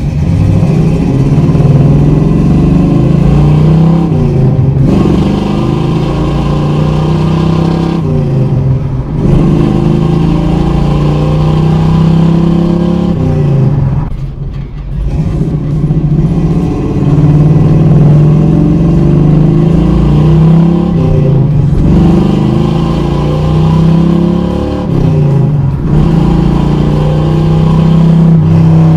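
1979 Chevrolet Camaro Z/28's 350 V8 with dual exhaust accelerating on the road, the engine note climbing in pitch and then dropping back with a short dip several times as the four-speed manual is shifted through the gears.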